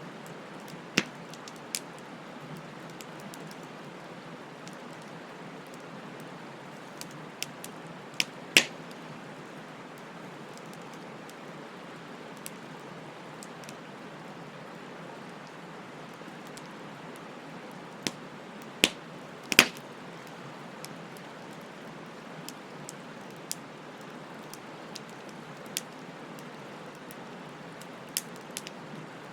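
Wood fire crackling: a steady hiss broken by scattered sharp pops, the loudest a few close together about nineteen seconds in and one about eight and a half seconds in.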